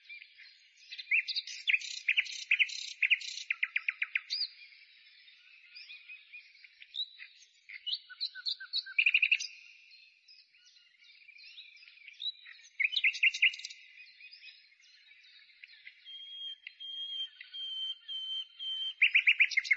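Songbird singing: quick chirps and fast trills, with a held high whistle in the last few seconds and a loud trill at the very end.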